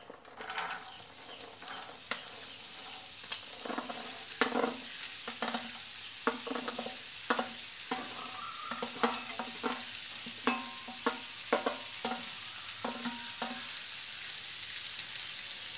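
Diced carrots sizzling as they are tipped into hot coconut oil in a frying pan. The sizzle builds within the first second and runs on steadily, with many scattered clicks and taps over it.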